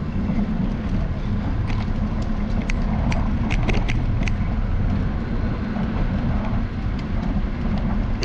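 Steady low rumble of a bicycle ride heard through a bike-mounted camera, with scattered sharp clicks and rattles from the loose camera mount, thickest in the first half.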